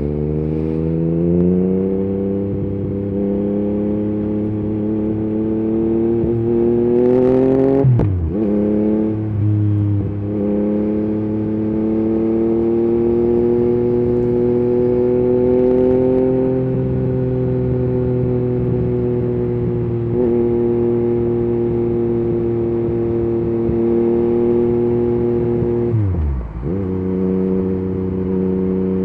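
Yamaha MT-09's three-cylinder engine through an Akrapovic carbon exhaust with the dB killer removed, running under way. Its pitch climbs for several seconds, falls sharply and picks up again about eight seconds in, then holds a fairly steady cruise, with a second quick drop and recovery near the end.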